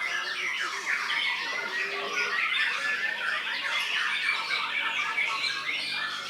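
White-rumped shama (murai batu) singing a dense, unbroken run of rapid chirps, whistles and quick up-and-down sweeps.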